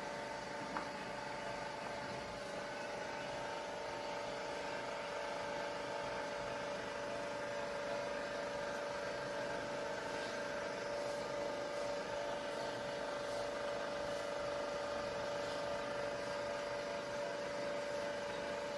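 A steady mechanical hum with several held tones that does not change, with a single faint click about a second in.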